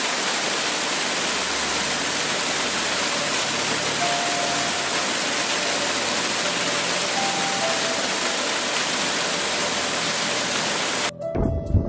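A steady, even rushing of water, like floodwater flowing, with a few faint brief tones partway through; it cuts off suddenly near the end.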